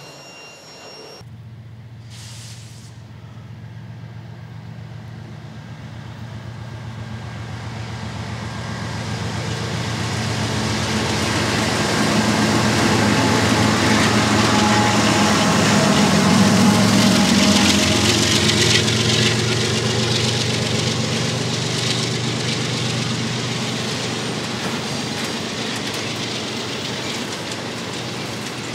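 A freight train led by a BNSF diesel locomotive passes close by. The engine's low drone builds steadily, is loudest about halfway through and drops slightly in pitch as the locomotive goes past. Autorack cars follow, their wheels rolling on the rails.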